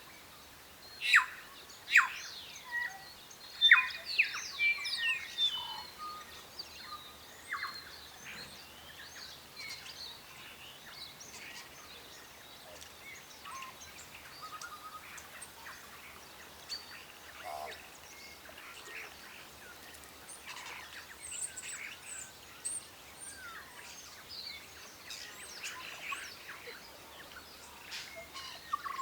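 Several birds calling and chirping, with a burst of loud, sharp, downward-sweeping calls in the first few seconds and fainter calls after that.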